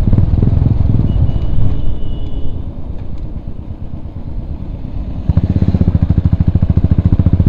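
Royal Enfield Bullet's single-cylinder engine running on the move, its exhaust beat easing off and quieter for a couple of seconds midway, then coming back suddenly louder with strong, even pulses about five seconds in.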